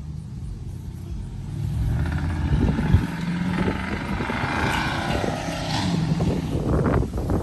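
A motor vehicle's engine running, with a rush of noise that swells through the middle and then eases.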